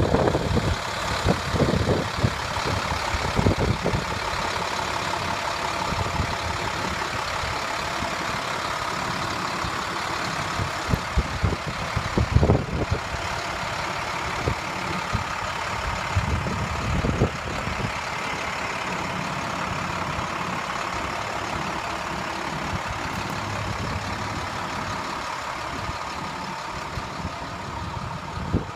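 A 2008 International 4300 dump truck's MaxxForce DT inline-six diesel idling steadily, with a few brief low bumps near the start and twice around the middle.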